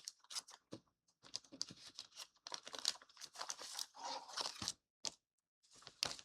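Thin wooden and cardboard kit sheets being shuffled and handled: a quick run of rustles and scrapes, pausing briefly about five seconds in.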